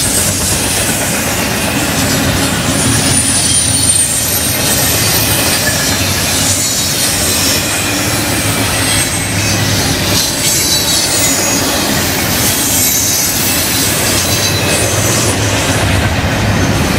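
Double-stack container train's well cars rolling past close by: a loud, steady rumble and clatter of steel wheels on rail, with thin high wheel squeals now and then.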